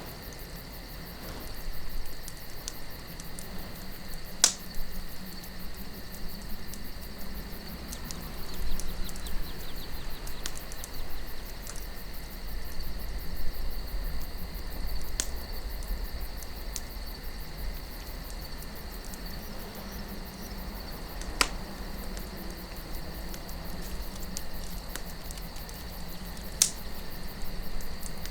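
Campfire crackling, with a few sharp pops spread through, over a steady high chirring of night insects and a low rumble of wind.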